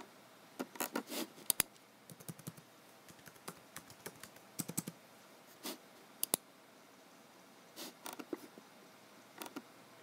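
Typing on a computer keyboard: irregular keystrokes in short clusters with pauses between them, and a few sharper, louder clicks.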